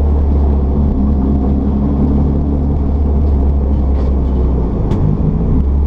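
Mitsubishi Lancer Evolution VI Tommi Mäkinen Edition race car's turbocharged four-cylinder engine running under load with a steady low drone, dipping briefly about five seconds in.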